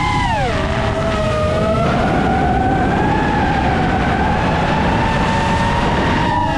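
FPV drone's motors and propellers whining. The pitch drops steeply about half a second in as the throttle comes off, then holds as a steady whine that slowly climbs, and shifts again near the end, over a rushing noise.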